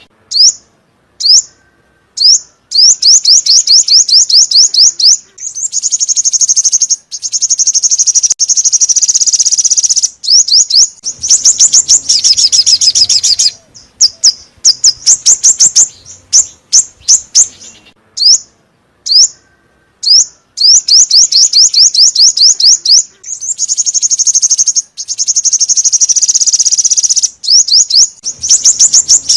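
Song of the bird called 'chim 5 màu' (five-colour bird), a lure recording for trapping: fast, high trills of repeated notes in phrases of two or three seconds, with single sharp call notes in the pauses between, and the sequence seems to come round again partway through.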